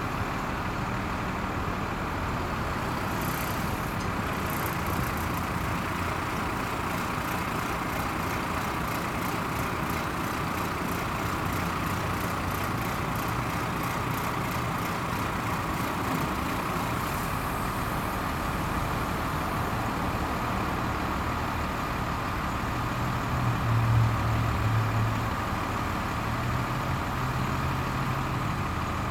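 Engine of a 1996 Ford LN7000 crane truck running steadily. It rises briefly about three-quarters of the way through, then settles back.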